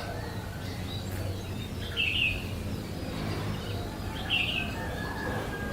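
A bird chirping: two short, high chirps about two seconds apart, over a steady low background hum.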